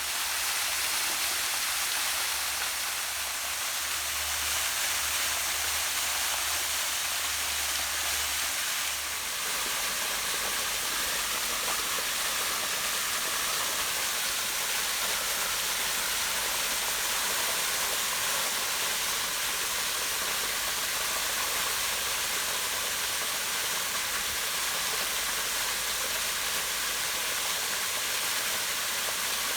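Small waterfall falling over rocks into a pond: a steady, even rush of water.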